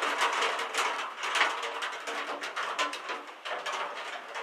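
Rain falling on a shack's roof: a steady hiss with irregular sharp drop hits.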